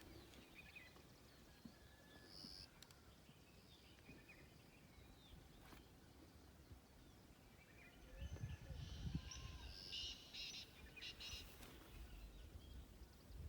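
Quiet outdoor ambience with scattered faint bird chirps. About eight seconds in, a low rumble rises, and a few brief high buzzy bursts follow.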